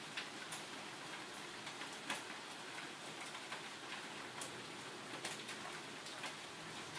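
Steady rain from a storm, with scattered sharp drops ticking irregularly on a nearby surface.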